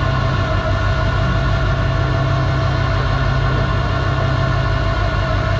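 Truck engine running steadily at idle, an even drone that does not change.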